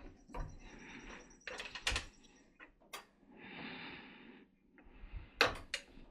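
Workshop handling noises while a wooden board is set up for an angled cut: several sharp clicks and knocks, with two short scraping slides, one near the start and one around the middle.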